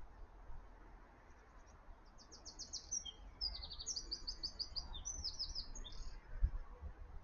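Small garden bird chirping in quick runs of high repeated notes for about four seconds, over a low steady rumble, with a soft low thump near the end.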